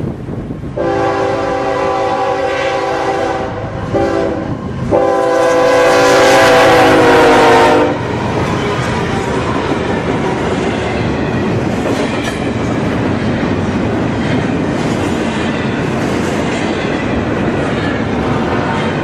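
GE ES44C4 locomotive's air horn sounding three blasts: a long one, a short one, then a longer, louder one whose pitch sags slightly near its end. Then the train's cars roll past with steady wheel and rail noise.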